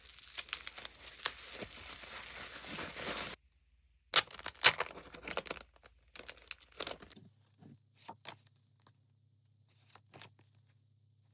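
Packaging being torn open by hand: a sharp rip, then about three seconds of continuous tearing that stops abruptly. This is followed by a few seconds of crinkling and crackling of the wrapper, then occasional small rustles.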